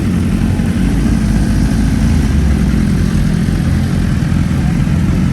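A car engine idling steadily close by, a low, even rumble.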